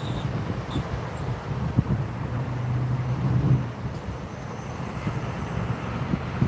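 Steady low outdoor rumble of road traffic and engines, with a low hum that swells in the middle and a few light knocks.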